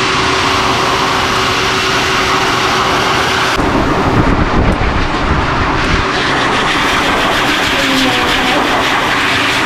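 High-velocity pet force dryer blowing a steady, loud rush of air with a constant whine. About three and a half seconds in, the hiss loses some of its top end as the airflow shifts.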